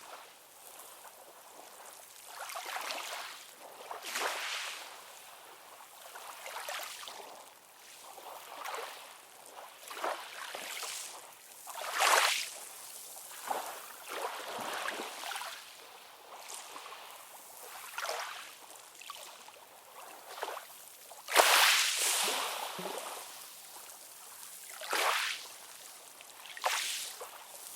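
Ocean water lapping and splashing in short, irregular surges every second or two, with two louder splashes about twelve and twenty-one seconds in.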